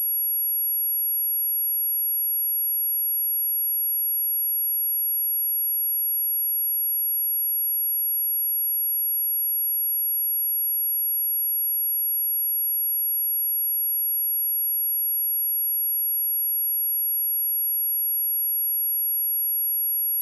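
A steady, high-pitched 11368 Hz sine-wave test tone, one pure pitch held without a break, played as a speaker test and speaker-cleaning tone.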